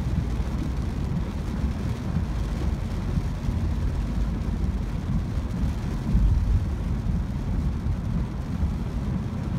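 Cabin noise of a Ford Focus driving through heavy rain on a flooded road: a steady low rumble of tyres on the wet road and the car running, with rain noise over it. It swells briefly louder about six seconds in.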